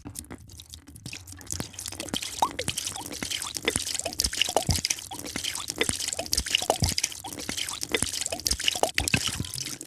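A drink poured into a glass: a dense run of small drips and bubble plops, short rising blips over a crackle of tiny pops.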